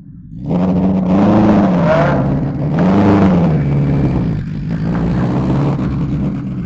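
A car engine revved twice, its pitch climbing and falling back each time, then running at a steadier lower pitch as the car pulls away.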